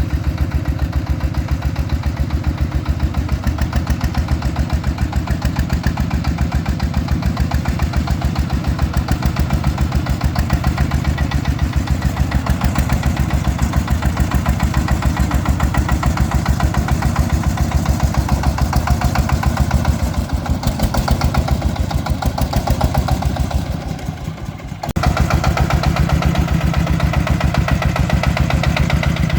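Single-cylinder diesel engine of a công nông farm truck chugging steadily with an even, rapid thump. It drops off briefly about 24 seconds in, then picks up again.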